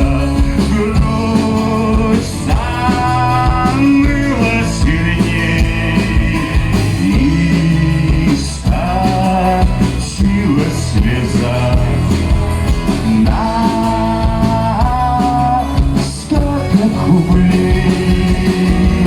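Live acoustic rock band playing an instrumental break: guitars and bass under a lead melody of long held notes, with no vocals.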